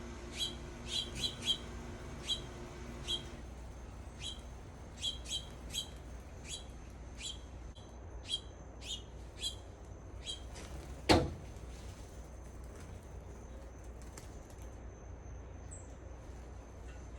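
A bird at the feeder giving repeated short, sharp chip calls, one or two a second, which stop about ten seconds in. About eleven seconds in comes a single loud knock, and a faint steady high tone runs on after it.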